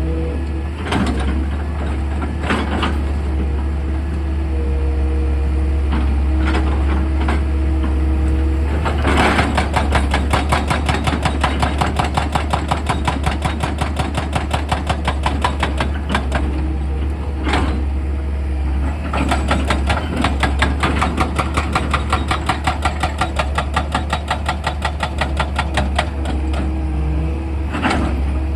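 Excavator's diesel engine running with a steady low drone, under rapid rhythmic hammering of percussive rock drilling, about three blows a second, that comes in spells.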